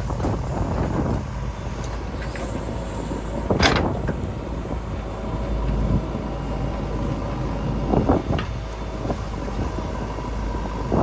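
Diesel engines of a backhoe loader and tractors running steadily, with two short, louder clatters, one a little under four seconds in and one about eight seconds in.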